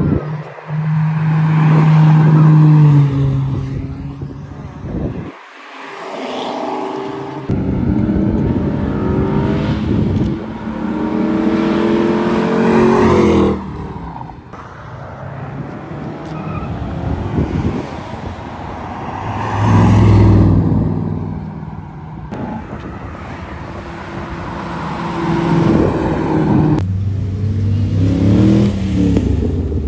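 Cars driving past one after another, their engines revving up and down, with several abrupt cuts from one car to the next.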